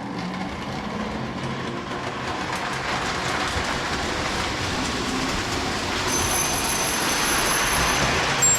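Lionel model train running around the layout's track, a steady wheel-and-motor rumble that grows slowly louder. A thin high whine joins about six seconds in.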